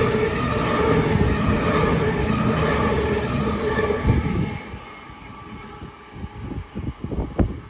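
A double-deck electric passenger train runs past close by, with a steady rumble and a whine from the train. The sound falls away suddenly about four and a half seconds in as the last car passes. A few low thumps, like wind buffeting, come near the end.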